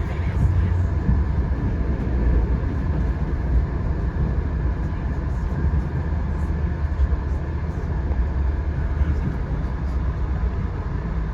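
Steady low rumble of a moving passenger train, with faint steady tones above it and no breaks.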